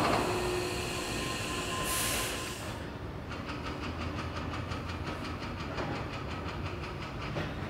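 Hankyu electric commuter train at the station platform: a short burst of air hiss about two seconds in, then a rapid, even clicking over a steady low rumble.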